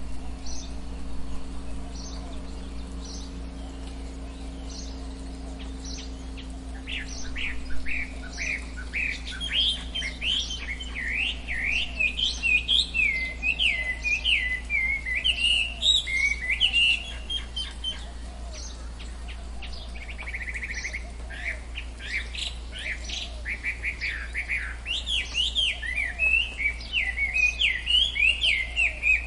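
Tropical forest birds calling and chirping: a short high note repeats about once a second at first, then from about seven seconds in several birds break into dense, fast chirping runs. A steady low hum sits underneath.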